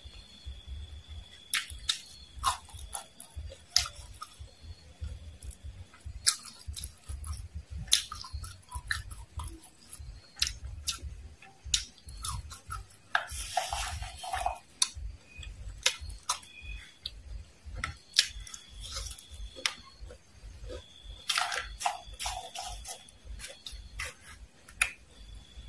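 Close-miked chewing of crisp fried worms and mole crickets: irregular sharp crunches and wet mouth sounds, with a couple of longer crackling stretches midway and near the end.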